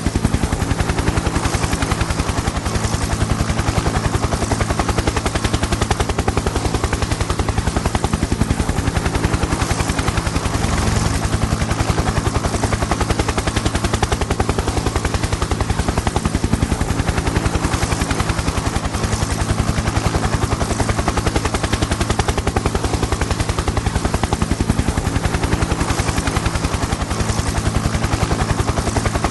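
Helicopter in flight: the rotor blades chop in a rapid, even beat over a steady low engine hum.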